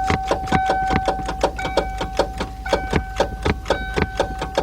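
The starter solenoid of a 1991 Mercury Cougar 3.8 clicking rapidly, about four to five clicks a second, with the key held in start, while the engine does not crank. A steady electronic warning tone sounds under the clicks. The clicking is the car's no-start fault: the solenoid chatters without the starter engaging, which points to the battery, a corroded or loose terminal, the solenoid or the starter.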